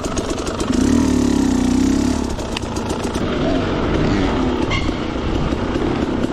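Two-stroke dirt bike engine running, briefly revved up and back down about a second in, then running on.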